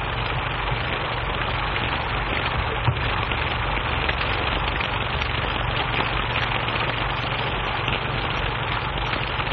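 Steady rushing noise with a continuous low rumble underneath, unbroken throughout, on an early sound-film track.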